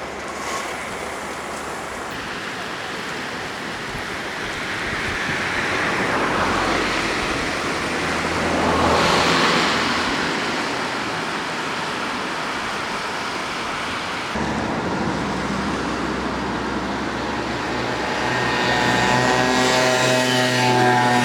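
Road traffic going by on a flooded, wet road: tyres hissing through water, with one louder pass about nine seconds in. Near the end a steady pitched tone with many overtones comes in and becomes the loudest sound.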